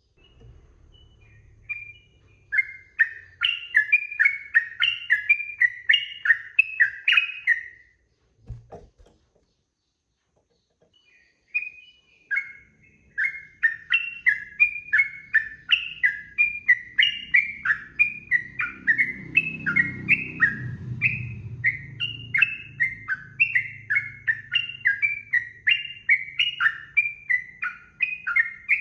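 Yellow-vented bulbul (trucukan) singing a fast, unbroken run of short whistled notes, about four a second. The song breaks off for a few seconds near the middle, with one soft knock in the gap, and then resumes.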